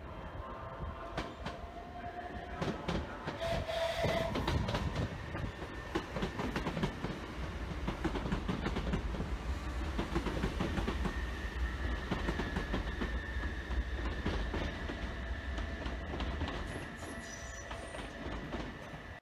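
A train moving along the track, its wheels clicking over rail joints, with a low rumble as it passes. A steady high whine comes in about halfway through and holds.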